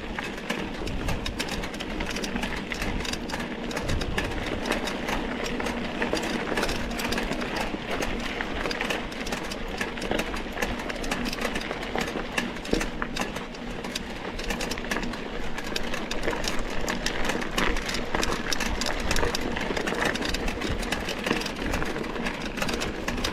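Mountain bike ridden over rough dirt trail: continuous rattling and crunching from the tyres, frame and chain, with many small knocks throughout.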